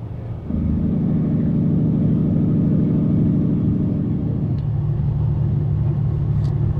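Semi truck's diesel engine running with a steady drone, heard from inside the cab. The drone gets louder about half a second in, and its higher hum falls away a little past the middle.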